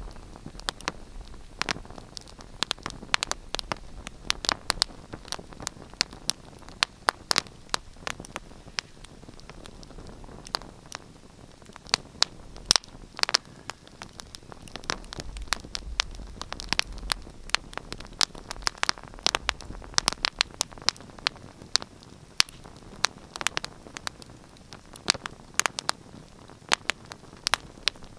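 Wood fire in a fireplace crackling, with sharp, irregular snaps and pops over a soft, steady hiss.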